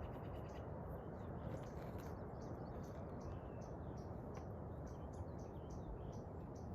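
Short high chirps from a small animal or bird, repeating about two to three times a second, over a steady rushing noise.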